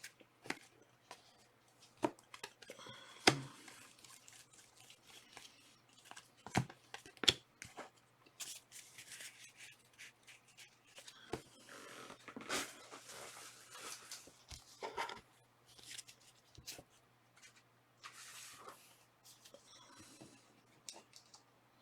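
Trading cards being handled during a pack break: soft slides, flicks and rustles of card stock, with scattered light clicks and taps.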